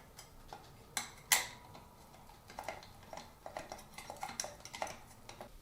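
Glass light shades clinking against the metal fitter of a ceiling-fan light kit as they are seated and their retaining screws tightened. There are two sharp clinks about a second in, then a run of small taps and clicks.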